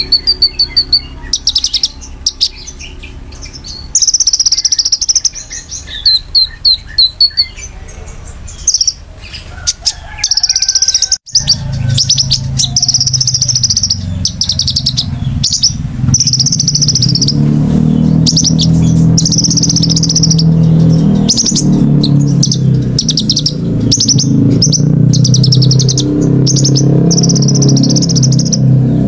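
Caged songbird chirping in rapid, high, sharp bursts, repeated again and again, as used in a bird-song training recording. After a brief break about eleven seconds in, a steady low hum runs under the chirps.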